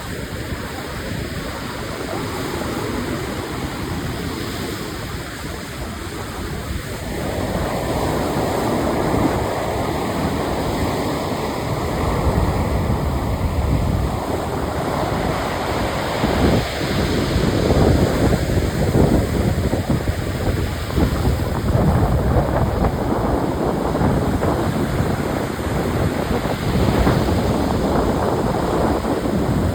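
Sea surf washing ashore, with wind buffeting the microphone; the surf grows louder about seven seconds in.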